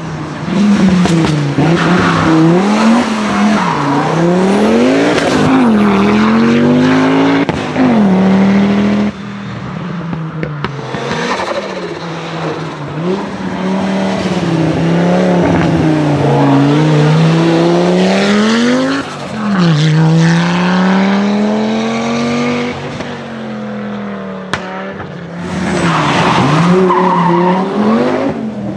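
Historic rally cars driven hard on a special stage: engines revving up through the gears and dropping back on lift-off and downshifts, with tyres squealing and skidding. It comes in several separate passes, with sudden changes about a third of the way in, about two thirds of the way in and near the end.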